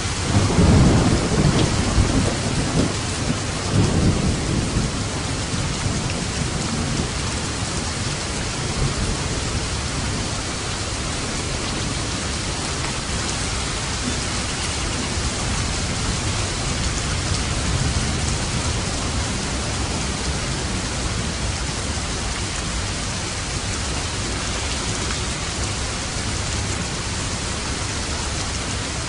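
Heavy rain falling steadily on a roof, with a low thunder rumble that rolls in the first few seconds and fades out, leaving the rain alone.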